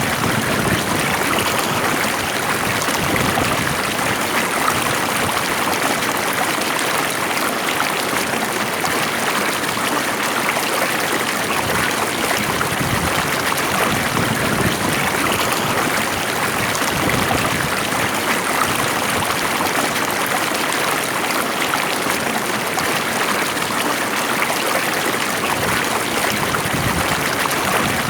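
Stream water flowing steadily, a continuous even rush and babble without breaks.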